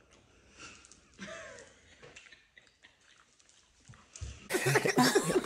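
Quiet mouth sounds of chewing a bite of food, with a couple of brief murmured vocal sounds, then loud music comes in about four and a half seconds in.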